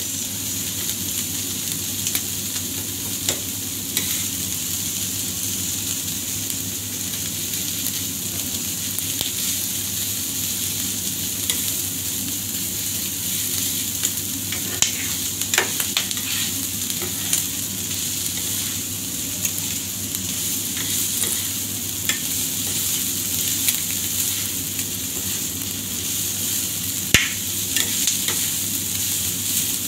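Vegetables sizzling on a hot flat-top griddle while a metal spatula stirs and scrapes them across the steel plate, with occasional sharp clicks of the spatula against the plate over a steady low hum.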